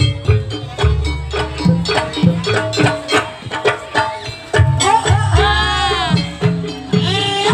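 Javanese jaranan accompaniment music: hand drums beat a quick rhythm under steady pitched percussion, and about halfway through a melody line with bending, wavering pitch enters over them.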